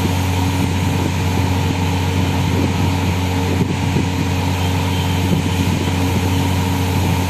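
Steady machine hum with a low drone and several fixed higher tones, unchanging throughout.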